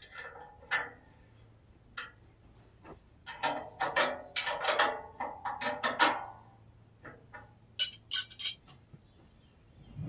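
Scattered metallic clinks and knocks of metal parts and tools being handled, as the sheet-metal blade shrouds are refitted on a bandsaw sawmill. A run of knocks comes in the middle, and a few sharp clicks follow near the end.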